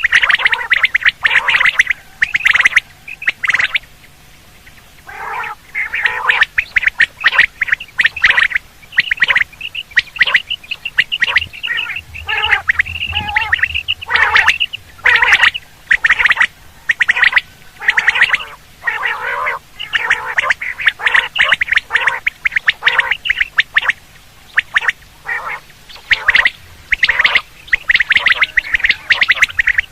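Quail (batair) calling: rapid runs of short, sharp notes repeated in bursts, a call played to lure quail in hunting.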